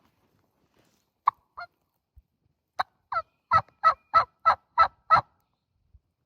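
Turkey yelping: two short notes, then a run of about eight loud yelps at roughly three a second.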